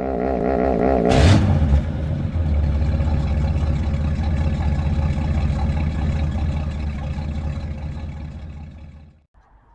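A motor runs steadily with a low, even sound. There is a short, loud clatter about a second in, and the sound dies away near the end.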